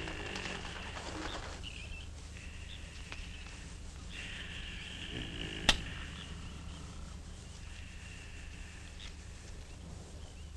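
Birds calling in short, high, steady-pitched stretches over a low hum. One single sharp crack about halfway through is the loudest sound.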